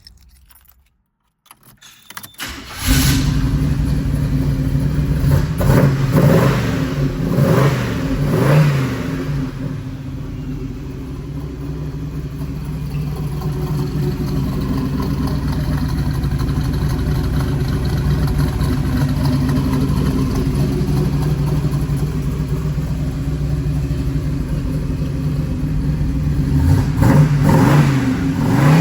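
Oldsmobile Rocket 350 V8 in a 1983 Hurst Olds starting up about three seconds in, revved three times, then settling into a steady idle. It is revved twice more near the end.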